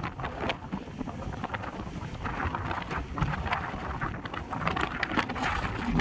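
Wind buffeting the microphone: a rough, uneven rumble with crackles throughout.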